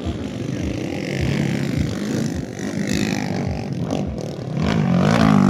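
Underbone motorcycles racing in a motocross heat, engines revving up and down as they go round. Near the end one bike comes louder and closer.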